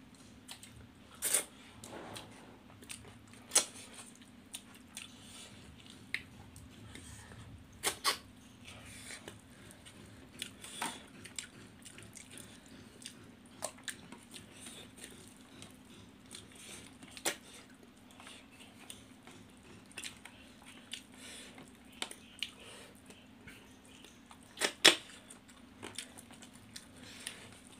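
Close-up eating sounds of two people eating fish curry and rice by hand: chewing with scattered sharp mouth smacks and clicks, the loudest near the end. A faint low steady hum runs underneath.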